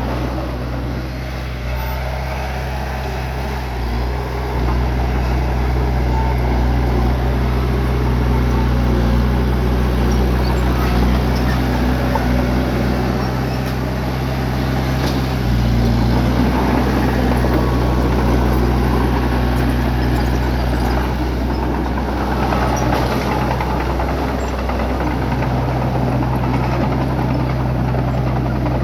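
Bulldozer's diesel engine running steadily under load while pushing dirt and rock. It gets louder about four seconds in, and its pitch shifts a couple of times as the load changes.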